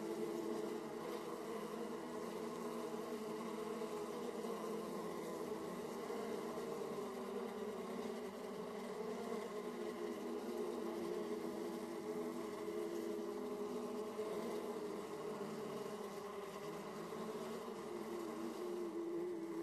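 Honeybees buzzing at a hive entrance: a steady dense hum of many bees, with several wavering pitches as individual bees fly close past.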